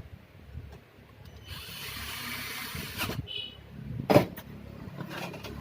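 Computer monitor being reassembled: about a second and a half of scratchy noise, a click, a brief high whine, and a sharp knock about four seconds in.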